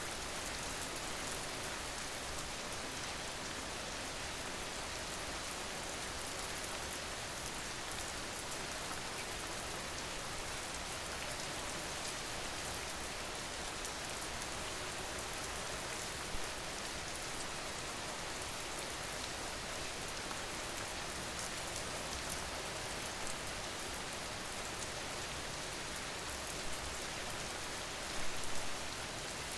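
Steady rain ambience, a dense even patter of rain. A few brief louder sounds stand out, once about midway and a short cluster near the end.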